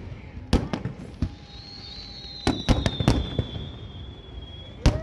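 Aerial fireworks bursting: a series of sharp bangs, several in quick succession around the middle and another near the end, with a high whistle that drifts slowly down in pitch through the middle.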